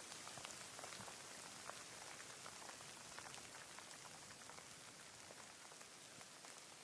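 Rain falling: a steady soft hiss with many individual drops ticking close by at irregular moments.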